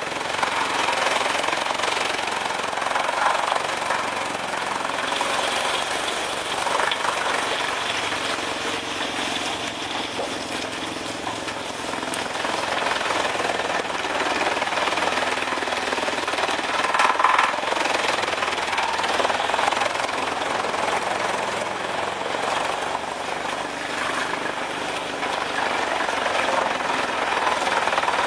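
Large wood chipper running and chipping wood, a loud, continuous dense noise without pauses.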